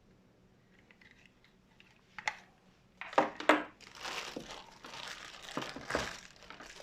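Packaging being handled and unwrapped: a single click about two seconds in, then crinkling and rustling in irregular bursts from about three seconds on.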